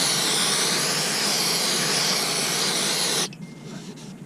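A loud, steady hiss, like gas or spray escaping under pressure, that cuts off abruptly a little over three seconds in.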